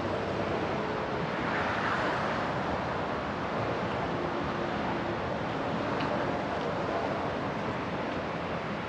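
Steady rushing outdoor ambience of wind and distant traffic, with no distinct events standing out.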